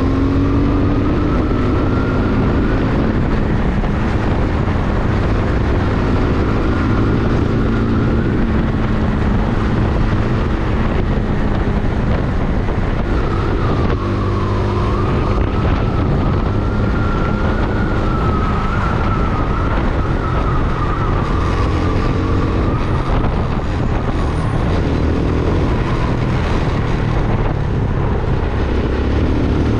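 Vento Alpina 300 motorcycle engine and exhaust running on the road, its pitch rising and falling with the throttle, with a brief drop about halfway through as it shifts or eases off.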